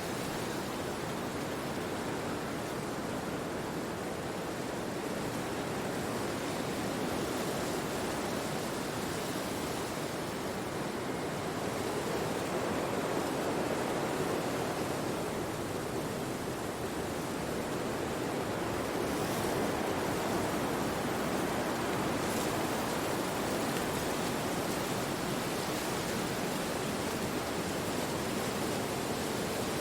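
Wind rushing through forest trees, a steady hiss that swells a little midway.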